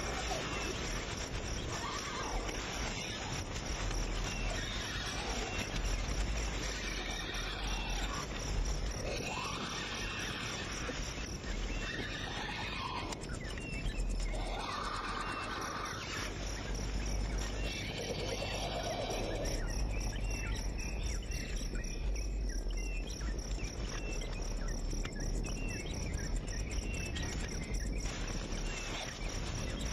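Outdoor ambience: insects trilling steadily, with scattered short bird chirps over a low rumble.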